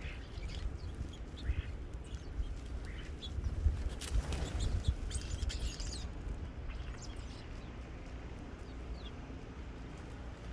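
Birds at a feeder calling with short, scattered chirps, over a low steady rumble. A brief rush of noise comes about four seconds in.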